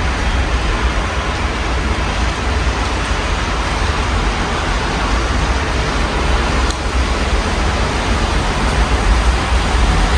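Steady rain heard through an open window, an even dense hiss, over a constant low rumble of city traffic.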